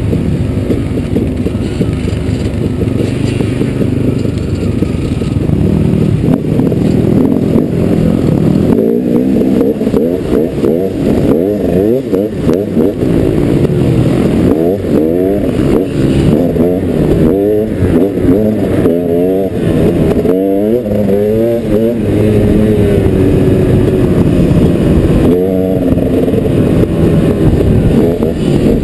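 Dirt bike engine running loud under a rider. It holds a steady drone at first, then from about eight seconds in revs up and eases off again and again, and settles to a steadier drone over the last few seconds.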